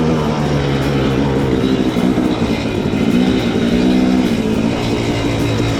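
Dirt bike engine running while being ridden, its pitch rising and easing with the throttle, over a steady rushing noise.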